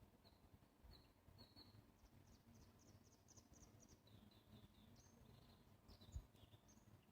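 Faint bird song: short, high chirping notes, with a quick run of about seven notes a couple of seconds in, then lower slurred notes, over a low background rumble. A single soft thump near the end.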